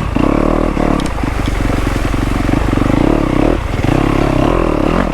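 Dirt bike engine running on the throttle, rising and falling, with brief dips in the engine note about a second in and again at about three and a half seconds.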